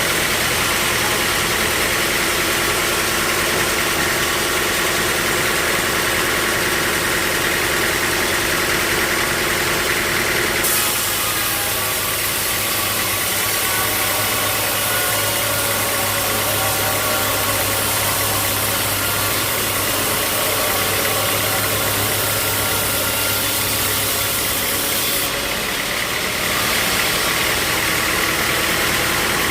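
Sawmill machinery running steadily with a continuous engine-like hum. The sound changes abruptly about eleven seconds in, with a deeper hum coming up, and changes back about twenty-six seconds in.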